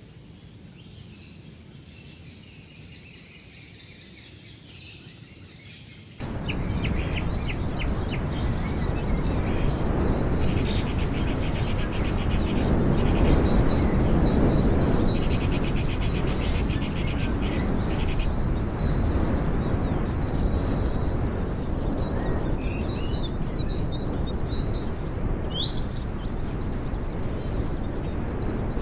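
Birds calling and chirping: short high trills, rapid repeated notes and whistles over a loud, steady rushing noise. The rushing noise comes in suddenly about six seconds in, after a quiet hiss.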